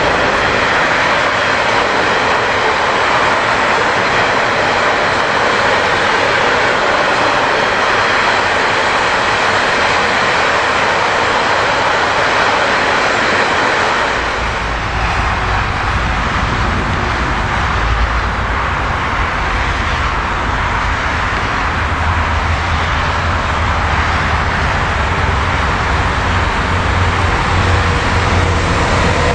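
A long freight train of enclosed car-carrier wagons rolling past on electrified track: a steady rushing rattle of steel wheels on rails. About halfway through, a deep, steady rumble sets in beneath it.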